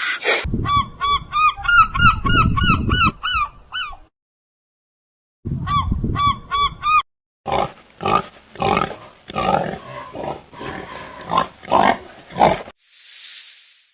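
Waterfowl calling: a fast run of short, nasal honking calls, about four a second, then a pause and another short run, followed by harsher, rougher calls. A short hiss comes near the end.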